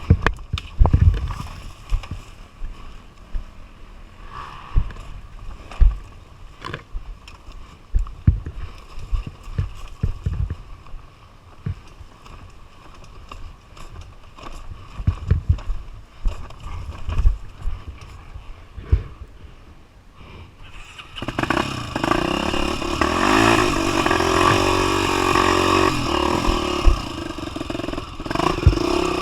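Scattered low thumps and knocks, then from about two-thirds of the way in a trail motorcycle engine running loud and steady at high revs.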